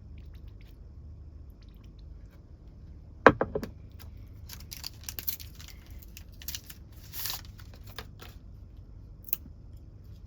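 Plastic takeout packaging being handled and opened: a sharp knock about three seconds in, then a run of crinkling and clicking plastic and one last click near the end.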